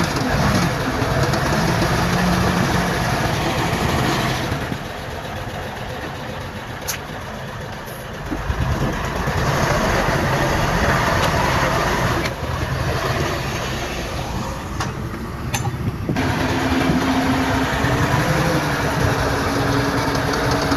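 Heavy diesel earthmoving machinery running, the engine note rising and falling under load. It drops quieter from about four seconds in and picks up again around eight seconds, and an engine note rises near the end.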